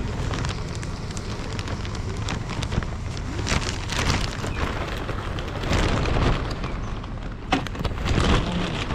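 Rain and wind noise on the microphone of a moving motorbike: a steady rushing hiss with a low rumble and many small crackles of raindrops hitting the mic.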